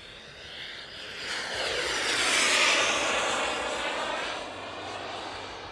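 Twin Xicoy 180 turbine engines of an RC Su-27 jet making a pass, the jet hiss swelling to its loudest about two and a half seconds in and then fading away.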